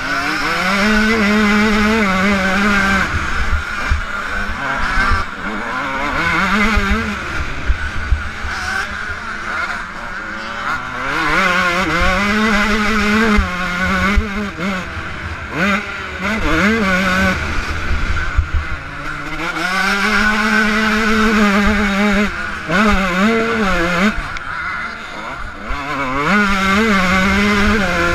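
Yamaha YZ125 single-cylinder two-stroke motocross engine racing, its pitch repeatedly climbing to a held high rev and then dropping as the throttle is opened and shut. Wind rumble on the helmet-mounted camera and short thumps run underneath.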